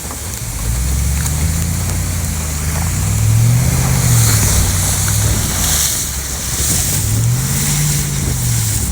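Four-wheel-drive vehicle's engine pulling under load, its pitch rising and falling twice, with surges of hiss over the top.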